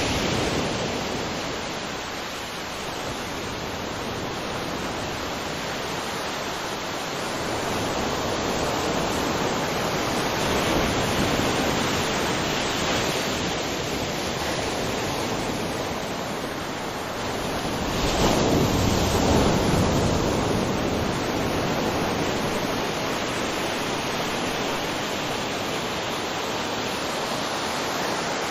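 Waterfall rushing: a continuous roar of falling water that swells louder about two-thirds of the way through.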